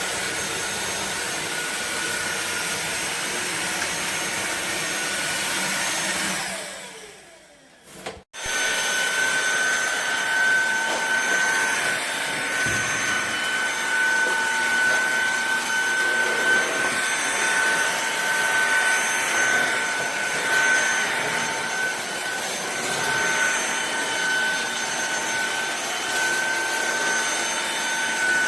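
Fieety 550 W cordless stick vacuum cleaner's motor running with a steady high whine. About six seconds in it is switched off and winds down to near silence, then it starts up again about two seconds later and runs steadily.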